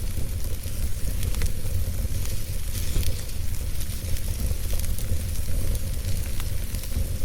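Wood fire burning, with scattered crackles and sharp pops over a steady low rumble.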